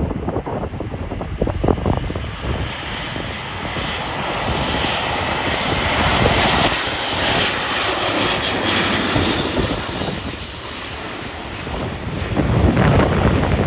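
Airbus A400M's four turboprop engines as the aircraft makes a low pass, the sound building to a peak a little past halfway and then fading. Wind buffets the microphone at the start and again near the end.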